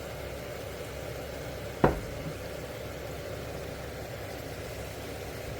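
Gravy in a pan sizzling and simmering steadily over the heat, with a single sharp knock a little under two seconds in.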